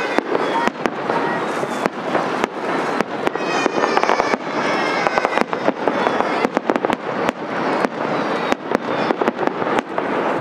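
Fireworks display: aerial shells bursting overhead in a fast, irregular series of sharp bangs and crackles.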